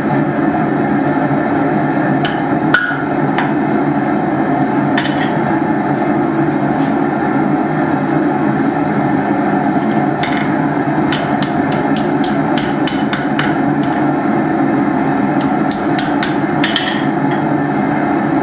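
Hammer blows on hot steel at the anvil while forging hooks. First come a few single strikes, then quick runs of about three blows a second, around ten seconds in and again near sixteen seconds. A loud steady drone from the running forge sits under them.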